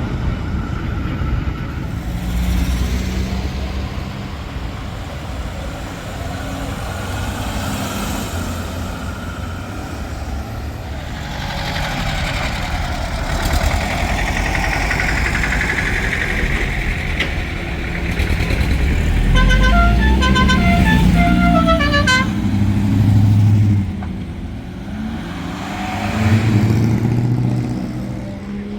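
Vehicles driving past at a classic vehicle show, their engines rumbling and rising and falling as they pass. About two-thirds of the way through, a horn sounds a quick run of several different notes for about three seconds.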